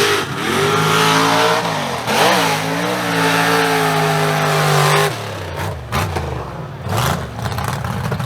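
Mega mud truck's big engine revving hard, its pitch rising and dipping, then held high before it drops off sharply about five seconds in; after that quieter stretch come a few short bursts of throttle.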